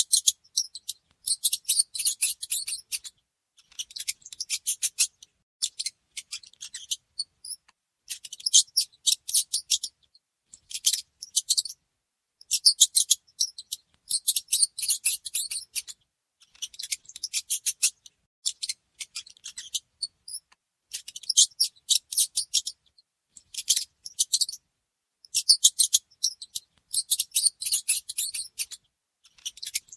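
Mice squeaking: quick strings of high-pitched squeaks, each a second or two long with short pauses between, repeating over and over.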